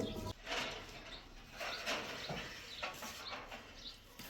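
Birds chirping faintly in short, scattered calls. A louder low machine rumble cuts off sharply just after the start.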